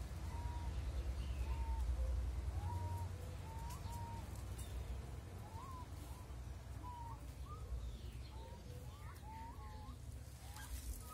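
Short whistled bird calls, each one or two notes with a quick upward flick, repeating every half second to a second and coming faster near the end. Under them runs a low rumble that is loudest in the first few seconds.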